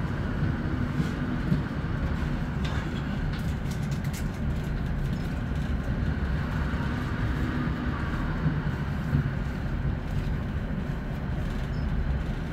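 Inside the saloon of a Class 156 diesel multiple unit under way: a steady low rumble from its underfloor diesel engine and wheels on the track, with a few faint knocks.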